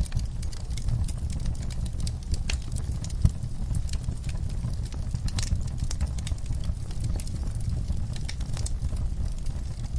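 Wood fire burning in a fireplace: dense, irregular crackling and popping over a low, steady rumble, with one sharper pop about three seconds in.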